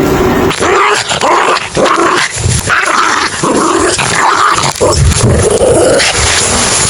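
Puppies barking over and over, about two short barks a second, starting about half a second in.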